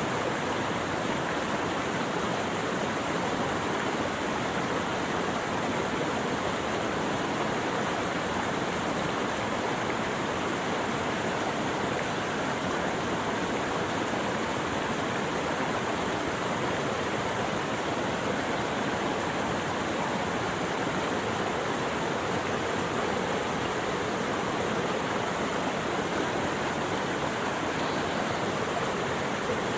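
Running water rushing steadily, an even unbroken wash with no birds or other sounds standing out.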